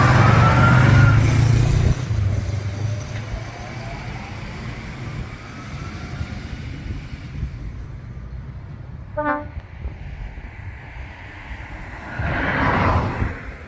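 Truck engine running loud with a rising whine as it pulls past, dropping away after about two seconds. About nine seconds in comes a brief horn toot, and near the end a short rush of noise.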